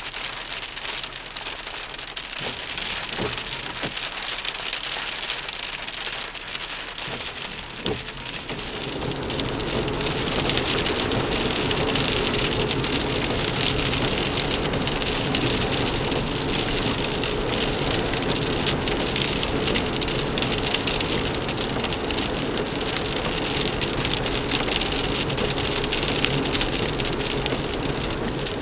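Small hail and rain pattering as dense, rapid taps. About eight seconds in, a louder, steady low rumble comes in and keeps going under the patter.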